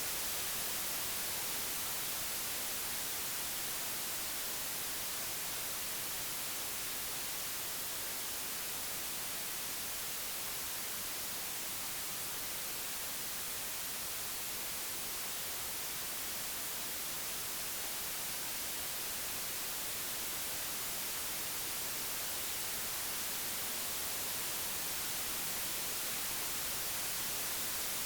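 Computer-generated white noise: a steady, even hiss, brightest in the highs, its level drifting slightly down and back up.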